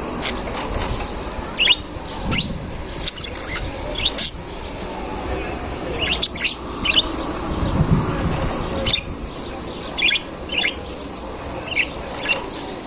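Caged budgerigars chirping, with short, sharp chirps coming irregularly, a dozen or so, over a steady low background noise.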